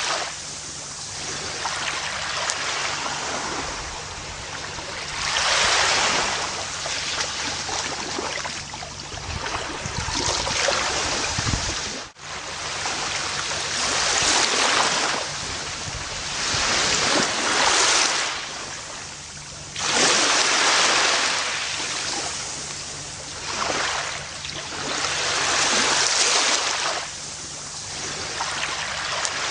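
Gentle ocean waves washing onto a beach, the surf swelling and fading every few seconds. A brief dropout about twelve seconds in.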